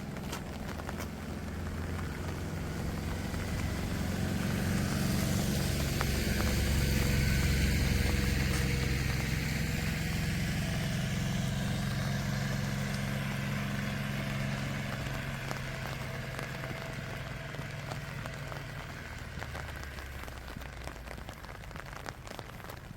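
A motor vehicle going by on a wet road, its engine and tyre hiss growing louder to a peak about eight seconds in, then slowly fading away.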